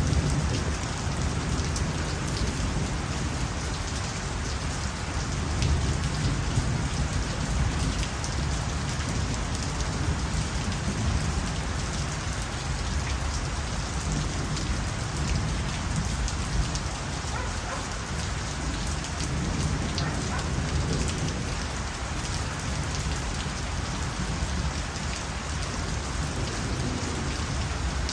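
Steady rain falling, with many individual drops ticking through it and a low rumble underneath.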